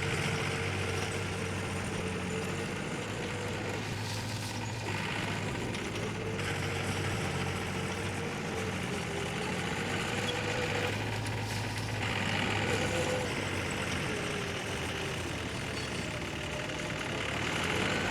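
Heavy diesel engine of earthmoving machinery running steadily, its pitch wavering a little as the load changes. Short stretches of rougher, hissing noise are laid over it now and then.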